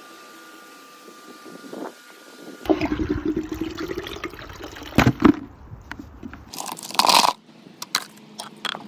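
Steady hiss with a faint high whine, then after a sudden change a few seconds in, crunching and scraping with several sharp knocks, the loudest near the middle and a second or two later: hands-on pool-cleaning work.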